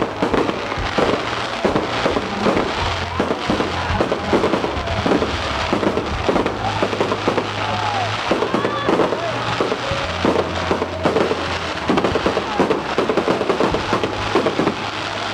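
Fireworks display: aerial shells bursting and crackling in a dense, irregular run of bangs throughout, over music with a steady bass.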